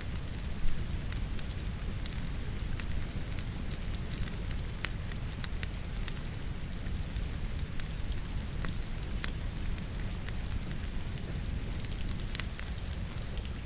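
Wood logs burning in a fireplace, crackling with scattered sharp pops, one louder pop about a second in, over a steady hiss of rain.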